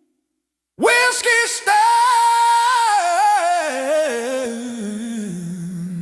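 Silence for almost a second, then music starts with a wordless sung line that holds a high note and steps downward with vibrato.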